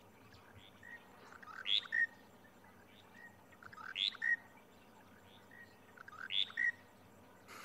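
Monotonous lark calling, the same short phrase of a few notes repeated three times, about every two and a half seconds.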